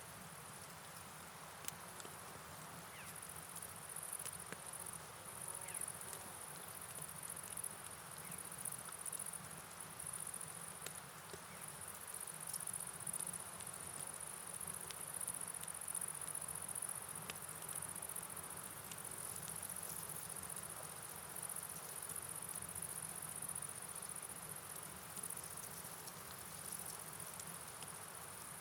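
Night rain and river ambience: an even hiss of falling rain and running water, with scattered light drip ticks, under a steady high-pitched chirring like a chorus of night insects that swells and fades.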